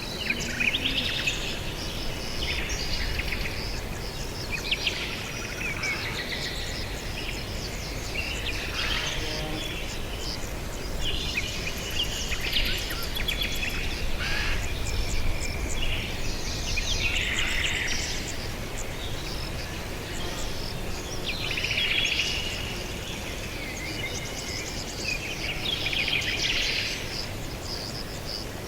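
Several birds chirping and trilling over one another in short bursts, with a steady low background rumble.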